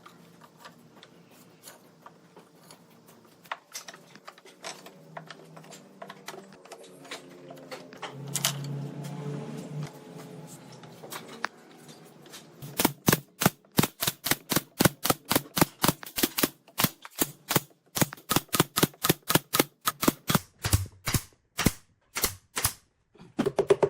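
A quiet stretch with faint steady tones and a few scattered clicks, then, about halfway through, a fast run of sharp woodworking tool impacts, about three or four a second, that stops shortly before the end.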